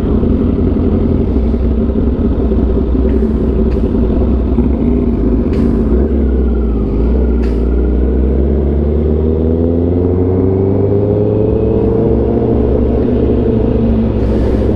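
Sportbike engine running under way, with low wind rumble on the microphone. The engine pitch climbs steadily from about halfway through, then levels off near the end as the bike accelerates.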